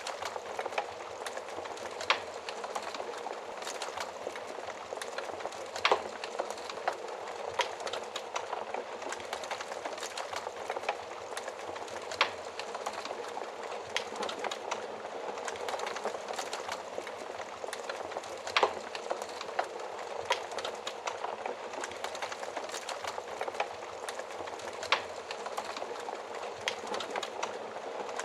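Fire crackling in an oven: a steady rush of small crackles, with a handful of louder sharp pops every few seconds.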